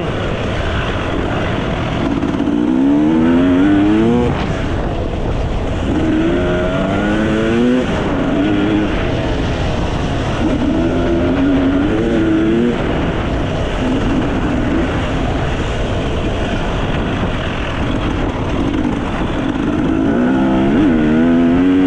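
Enduro dirt bike engine revving under way, its pitch climbing in several runs, over a steady rushing noise.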